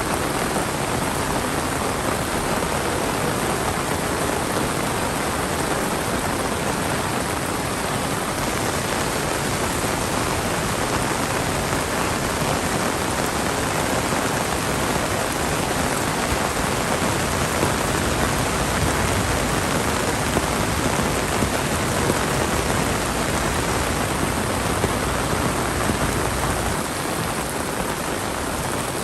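Heavy monsoon rain pouring steadily, a dense even hiss of rain on surfaces.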